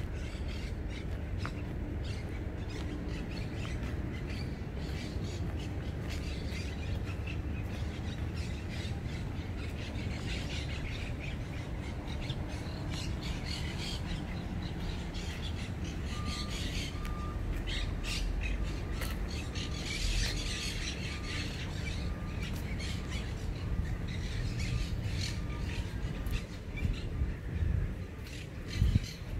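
Birds in the park trees giving many short calls, busiest in the middle, over a steady low background rumble.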